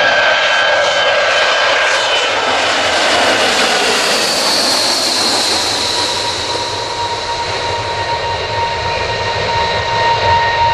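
Jet engines of a Boeing C-17A, four turbofans, running loudly. A roar carries steady whines, and a higher whine swells and sinks a little in pitch around the middle.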